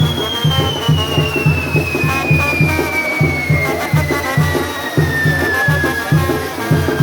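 Live band music with a steady bass drum beat, about two beats a second, under a long high whistle that slowly falls in pitch.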